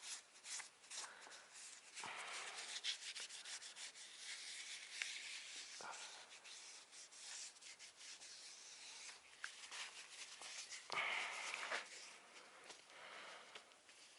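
Faint rubbing and scraping with scattered light clicks, a little louder about eleven seconds in.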